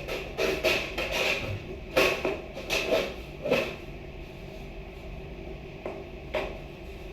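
Irregular knocks and clatters of hard objects being handled and set down, several in quick succession over the first few seconds, then only a couple of isolated knocks.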